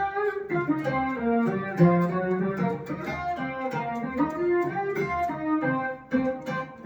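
Electric guitar played through a Boss SY-200 guitar synthesizer pedal on its Saw Lead preset: a buzzy sawtooth-wave synth lead playing a quick melodic line of notes.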